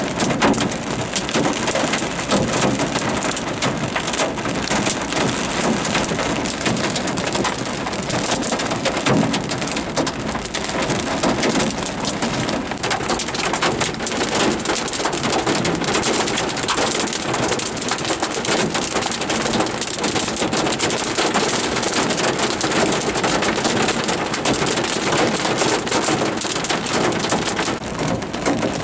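Heavy rain falling on a vehicle's roof and windshield, heard from inside the cab: a dense, steady stream of small drop impacts with no let-up.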